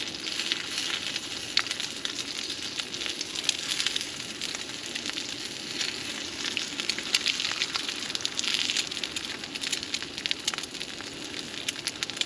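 Food sizzling in a small skillet over a portable camp burner, a steady hiss with frequent small crackles and pops.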